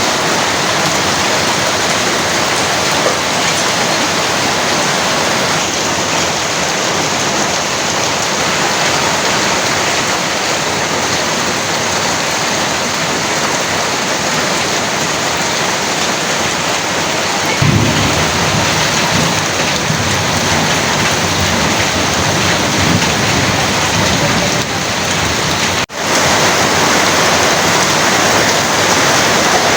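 Heavy rain pouring steadily. About two-thirds of the way through, a low rumble of thunder comes in suddenly and rolls on for several seconds. The sound cuts out for an instant near the end.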